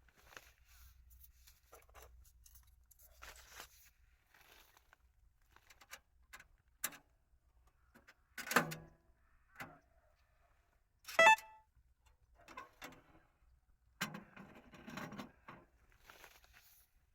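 Camping gear being handled inside a tent: scattered light knocks and rustles, a sharp metallic clink with a brief ring about 11 seconds in, and a longer spell of rustling near the end.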